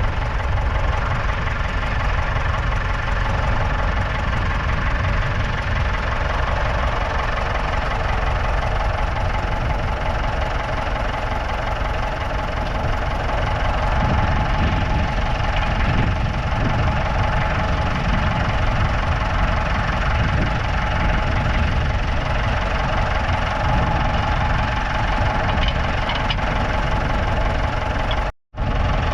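Ford 6600 tractor's 4.2-litre four-cylinder diesel engine running steadily. The sound cuts out for a moment near the end.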